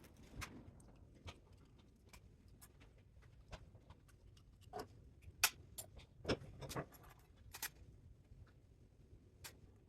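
Faint, scattered clicks and taps at an irregular pace, with a handful of sharper ones in the middle.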